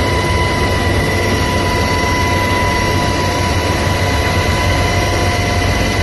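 Aircraft engine running steadily: a loud, even drone with a steady high-pitched whine over it.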